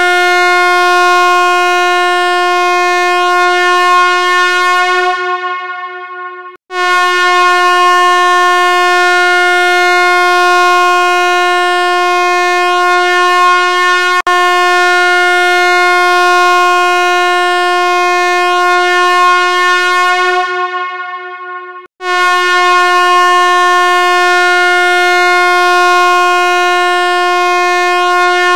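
A loud, steady horn-like tone held at one unchanging pitch, buzzy with many overtones. It breaks off briefly about seven seconds in and again about twenty-two seconds in; each time its brightness fades away just before the break, and it comes back suddenly at full strength.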